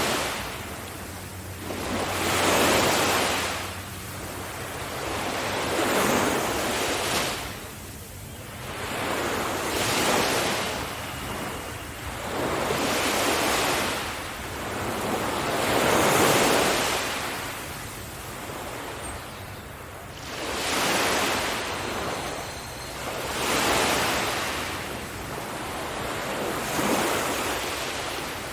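Waves breaking on a beach: surf washing in and out in repeated surges, a new one every two to three seconds, with some wind on the microphone.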